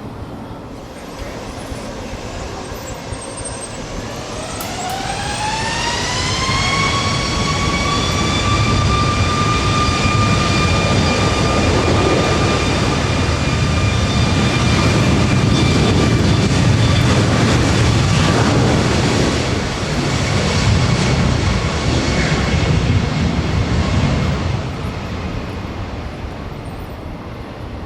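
Jet airliner engines spool up with a rising whine over a few seconds, then hold a steady whine over a loud rumble. The sound fades about four seconds before the end.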